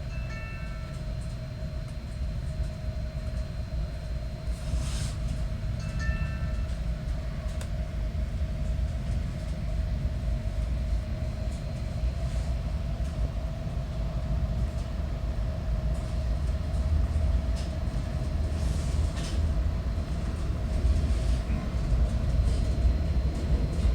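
Metra commuter train rumbling on the rails, growing louder toward the end, with a steady mid-pitched tone running under it. Two brief high tones sound, one near the start and one about six seconds in.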